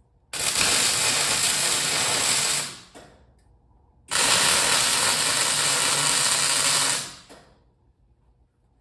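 Arc welding on steel: two weld beads of steady crackling and sizzling, the first about two seconds long and the second about three, with a short pause between, as the tail is welded onto the sculpture.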